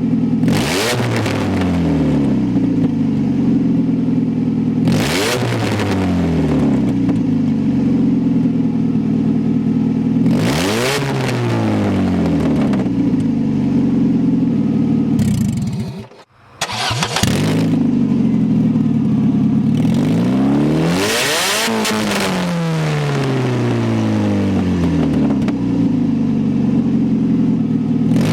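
1993 Saturn SW2's 1.9-litre twin-cam four-cylinder running with an open exhaust manifold and no pipe after it. It is revved hard again and again, about every five seconds, each time rising quickly and then slowly falling back. The sound breaks off briefly about sixteen seconds in.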